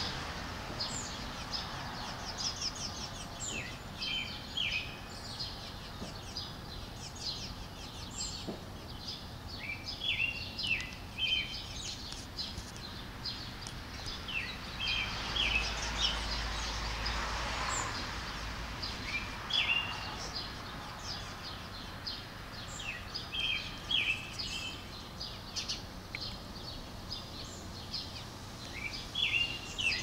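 Small birds chirping repeatedly in short clusters of quick, dropping chirps, over steady outdoor background noise. A low rumble swells in the middle.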